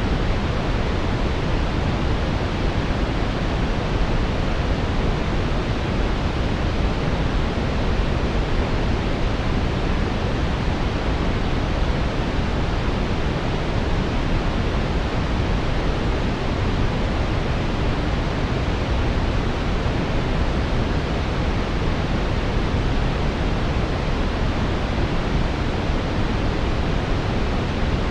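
Brown noise: a steady, deep rushing hiss with most of its weight in the bass, even and unbroken throughout.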